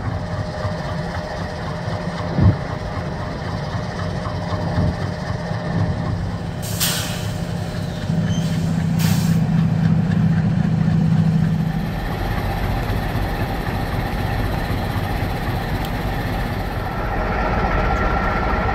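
MLW diesel locomotives idling at a standstill, a steady low engine hum, which grows louder for a few seconds about 8 s in. Two short hisses of released air sound about 7 and 9 s in, with a single knock near the start.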